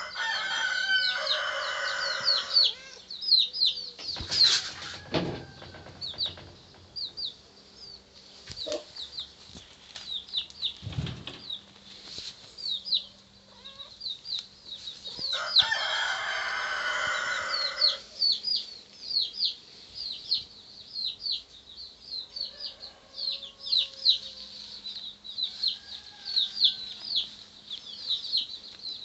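A rooster crows twice, once at the start and again about halfway through, over a constant run of quick, high chirps. A couple of dull thuds come in between.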